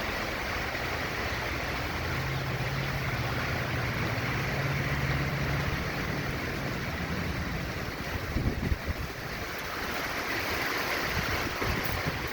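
Hurricane wind and driving rain making a steady rushing noise, with a few brief gusts buffeting the microphone a little after eight seconds in.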